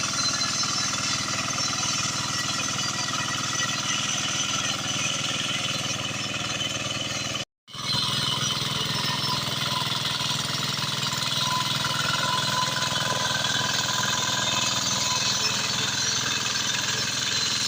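Walk-behind hand tractor engine running steadily with a rapid, even beat, cutting out completely for a moment about seven and a half seconds in.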